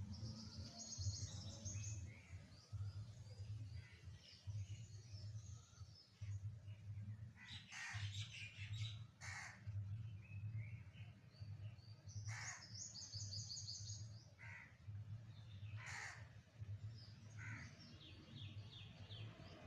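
Birds calling: high chirping trills and a few loud, harsh calls, over a low hum that swells about once a second.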